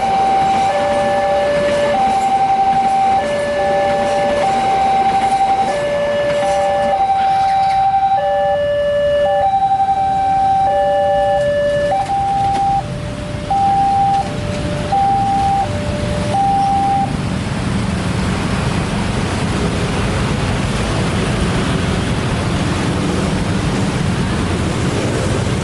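Railway level-crossing alarm sounding its two-tone alternating warning, a high and a low tone in turn, and cutting off about 17 seconds in. Road vehicle engines then rumble steadily as traffic moves over the crossing.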